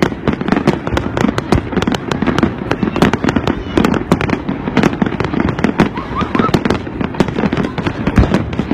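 Fireworks bursting in rapid succession: a dense barrage of sharp bangs and cracks over a continuous rumble, with crowd voices underneath.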